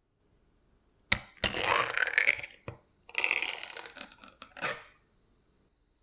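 Food-preparation handling noise: a sharp crack about a second in, then two bursts of crackling and rustling, each a second or more long, with a faint steady high whine starting about halfway through.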